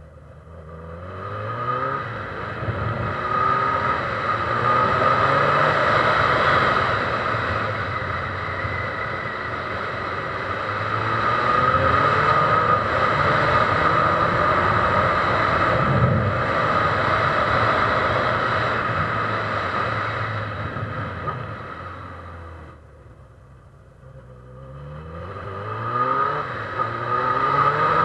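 Honda CB1000R's inline-four engine accelerating, its pitch rising in sweeps as it pulls through the gears, then running steadily at speed. About three-quarters of the way through it drops back and quietens, then revs up and pulls away again.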